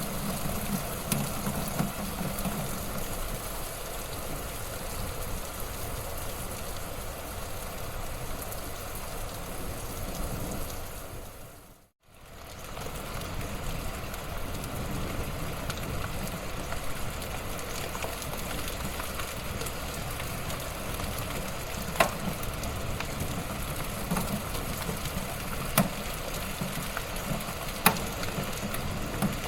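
Wood fire burning in a fireplace: a steady crackle and hiss with a low rumble, and a few sharp pops of burning wood near the end. The sound fades out and back in about twelve seconds in.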